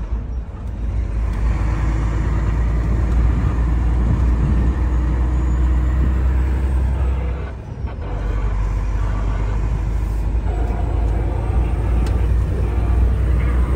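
Heavy truck driving, heard from inside the cab: a steady low engine and road rumble, with a brief dip in loudness about eight seconds in.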